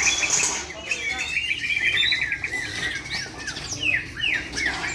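White-rumped shamas (murai batu of the Medan type) singing, several birds overlapping: rapid trills mixed with quick downward-sweeping whistled notes.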